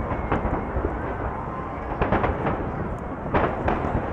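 Aerial fireworks shells bursting in quick succession over a continuous low rumble of booms: a sharp bang shortly after the start, a cluster of four bangs around two seconds in, and three more near the end.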